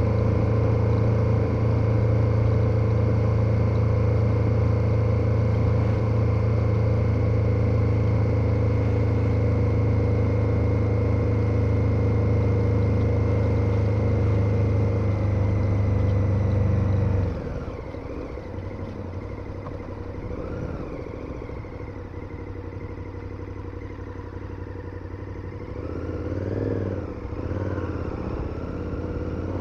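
KTM 1290 Super Adventure's V-twin engine running at steady revs under way. A bit over halfway through, the engine note drops off suddenly to quieter running. Near the end it rises and falls in pitch a few times.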